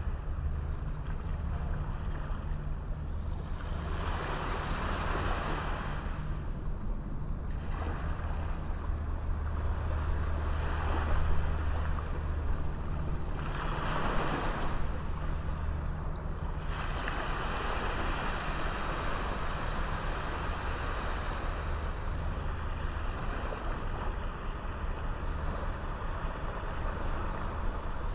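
Small sea waves washing onto a beach, the surf swelling and falling every few seconds, over a steady low rumble.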